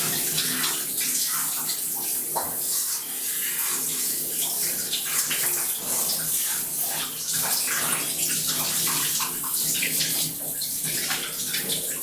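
Water running and splashing in a bathtub during a shower, with continuous irregular splashing and dripping in a small tiled room.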